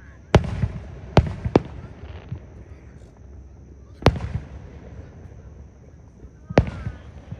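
Aerial fireworks shells bursting: five sharp bangs, three in quick succession in the first two seconds, one about four seconds in and one near the end, each followed by a low rumbling echo.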